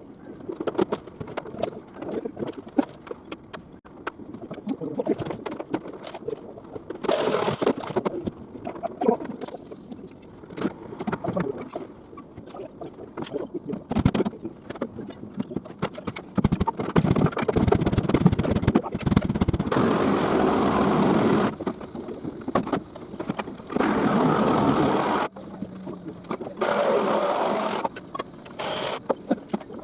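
Demolition work: irregular knocks, clatter and scraping, then three bursts of a machine running, each a second or two long, in the second half.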